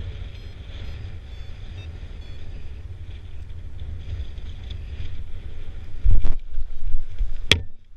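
Wind buffeting the microphone with a steady low rumble, then two loud knocks or bumps, about six seconds in and a second and a half later.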